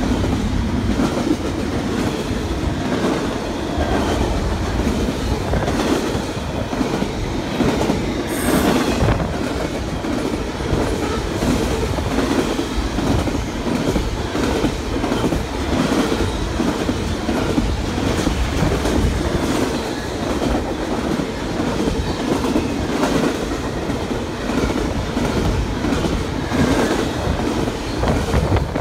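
Double-stack intermodal freight train rolling past close by: a steady rumble and rattle of wagons with repeated wheel clacks over the rail. A brief high squeal, falling in pitch, cuts through about eight seconds in.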